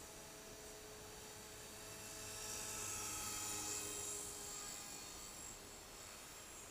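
Align T-Rex 450 Pro DFC electric RC helicopter flying at a distance: a thin whine of motor and rotor blades, swelling louder in the middle and then fading.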